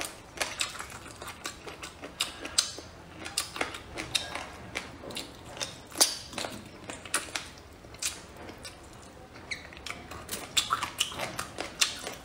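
Close-up mouth sounds of eating boneless chicken feet and braised pork belly: a string of sharp, wet, irregular clicks and smacks from biting and chewing, several a second, the loudest about six seconds in.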